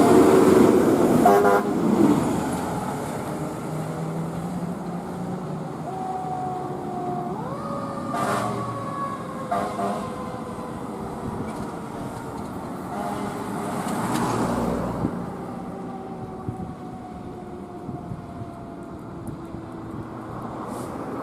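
Emergency vehicle responding with its siren wailing, the pitch rising sharply about eight seconds in and then slowly falling. Several short horn blasts sound over traffic noise.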